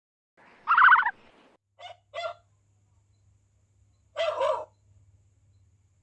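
Short farm animal calls: one loud pitched call about half a second long near the start, two brief clipped calls around two seconds in, and a rougher call a little past four seconds. A faint low hum runs underneath from about two seconds on.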